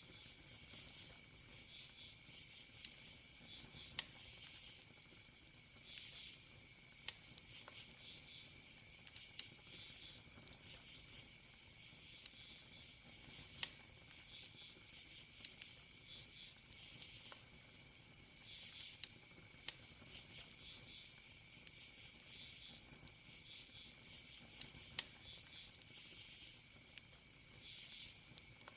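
Wood campfire crackling with scattered sharp pops, a few louder than the rest, over the steady high chirping of crickets.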